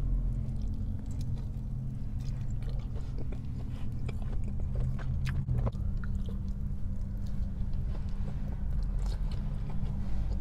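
Close-miked chewing of a burrito, with wet mouth sounds and short sharp clicks a little past the middle and again near the end, over a steady low hum.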